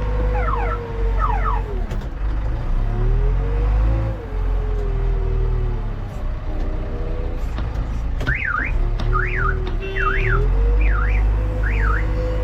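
JCB backhoe loader's diesel engine running under working load, its pitch dipping and rising. A warbling electronic alarm sweeps rapidly up and down over it in the first second and again from about eight seconds in.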